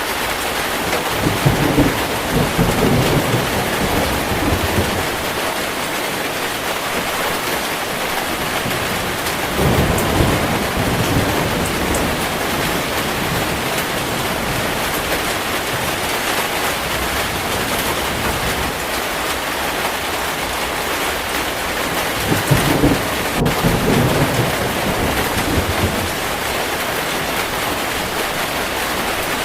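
Heavy rain falling steadily, with three low rolls of thunder: one about a second in, one around ten seconds in, and one a little past twenty seconds in.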